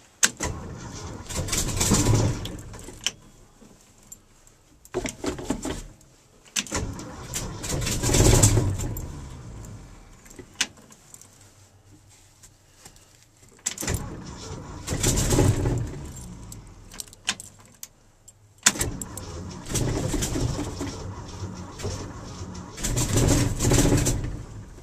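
1974 Ford F250's engine being cranked on the starter in about five separate tries, each lasting one to five seconds with pauses between, without settling into a steady run. It is a cold start with a dose of gas poured into the carburetor to help it fire.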